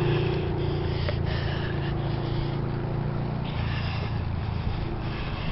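A motor vehicle engine humming steadily, then fading out about three and a half seconds in, over a steady rushing noise.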